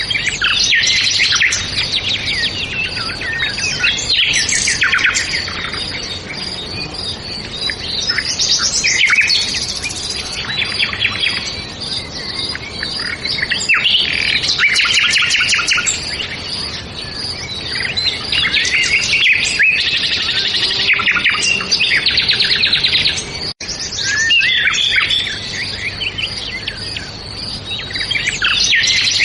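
Several songbirds singing at once: overlapping chirps and rapid trills, with a high note repeated steadily underneath. The sound drops out for an instant about two-thirds of the way through.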